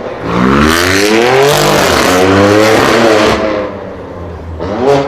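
Modified car engine revving hard under acceleration: the pitch climbs, dips at a gear change, climbs again, then drops away as the throttle is lifted about three seconds in, with a short rev again near the end.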